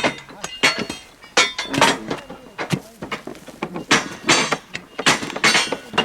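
Metal striking metal, repeated and irregular blows about one to two a second, some leaving a short ring: hand tools at work on railway track being dismantled.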